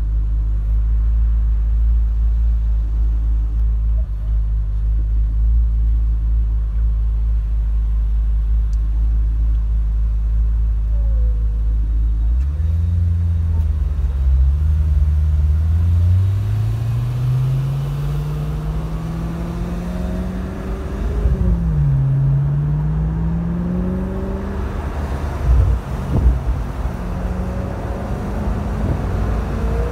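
Maserati GranSport Spyder's 4.2-litre V8, heard from inside the cabin, idling steadily. About twelve seconds in it pulls away, its note rising through the gears with two upshifts, then settles to a steady cruise. A couple of short knocks come near the end.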